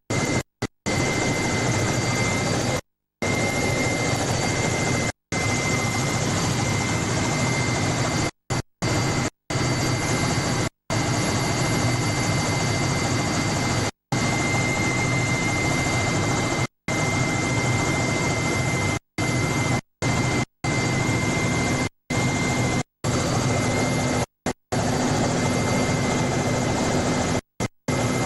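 Helicopter engine and rotor noise heard from aboard: a steady dense noise with a constant whine, broken by many brief dropouts where the sound cuts to silence.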